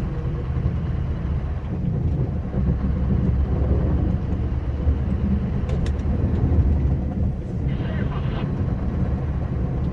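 Scania R560 truck's V8 diesel engine running steadily under load, heard from inside the cab as it plows snow, with a continuous low drone and road and plow noise.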